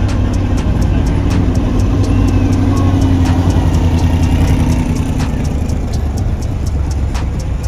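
A classic car's engine running at low revs, its exhaust note swelling for a few seconds in the middle and then easing off.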